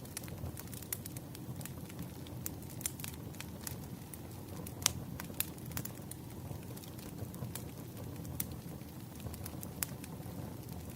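Wood fire crackling: a low steady rumble of flames with scattered sharp pops and snaps, the loudest pop about five seconds in.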